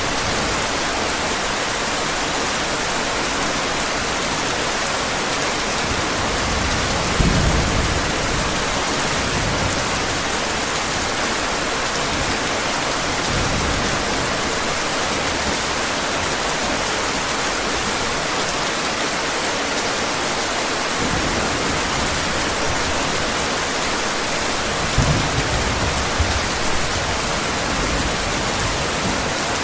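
Steady heavy rain with low rolls of thunder, one about seven seconds in and a few more later on.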